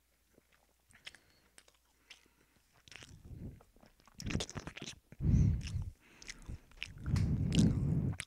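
Close-miked chewing and biting into food: a few faint mouth clicks at first, then from about three seconds in loud, crunchy bites and chewing right at the microphone, heaviest near the end.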